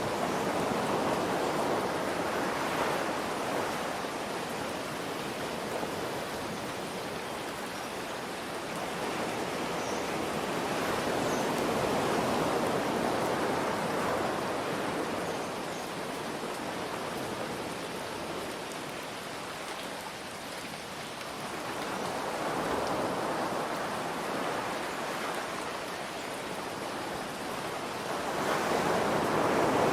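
Ocean waves washing in and drawing back in slow swells several seconds apart, over a steady hiss of gentle rain.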